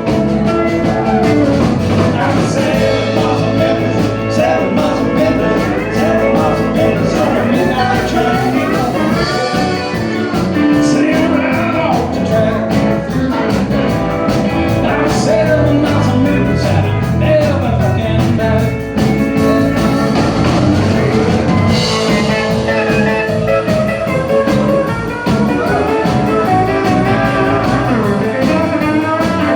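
A live country band playing a song at full volume, with guitars over a steady beat.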